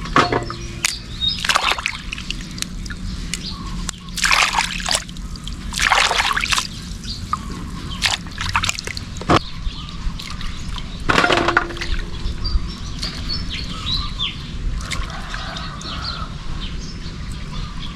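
Water sloshing and splashing in several separate bursts, as when fresh turmeric roots are washed by hand in a basin of water.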